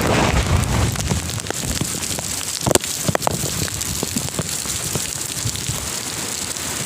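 Heavy cyclone rain pouring down, with strong wind buffeting the microphone in the first second and a few louder splashes of drops about three seconds in.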